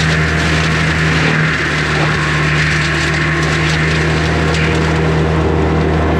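Skid steer engine running steadily under load while its forestry mulcher head grinds through brush and wood, with splintering crackle over the drone of the machine.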